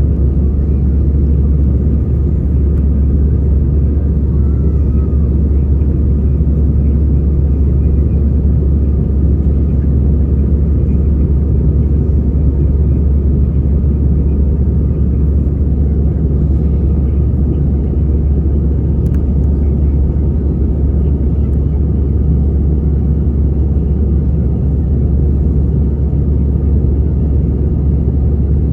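Airbus A320 cabin noise in flight: a loud, steady low rumble of engines and airflow through the fuselage, unchanging throughout.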